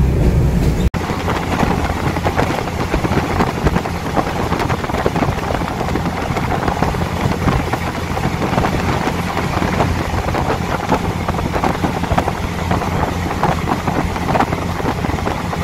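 Steady rush of wind and running noise of a moving passenger train, heard from an open window. It cuts in abruptly about a second in.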